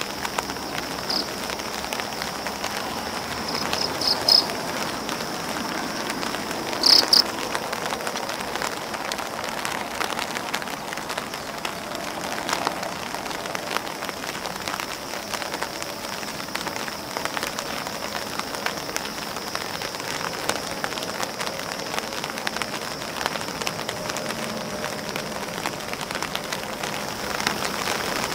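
Rain falling on an umbrella and on grass leaves: a steady patter of countless drops with sharper individual ticks on the umbrella fabric.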